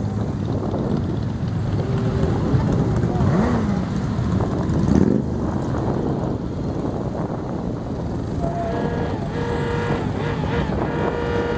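Many motorcycle engines running at once in a dense, continuous mix, with some revving and voices. A long steady tone starts about eight and a half seconds in and holds.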